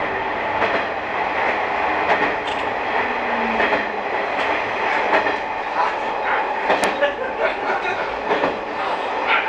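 Sanriku Railway diesel railcar running at speed through a tunnel, heard from on board: a steady rumble of wheels on rail with scattered clacks over rail joints. The train leaves the tunnel near the end.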